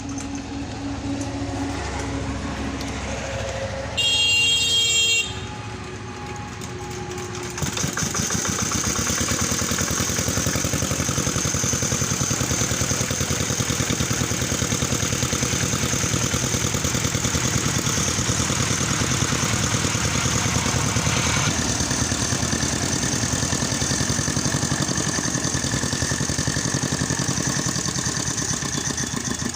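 A vehicle horn sounds once for about a second, a few seconds in. Then, about seven seconds in, a small engine starts running steadily with a fast, even pulse.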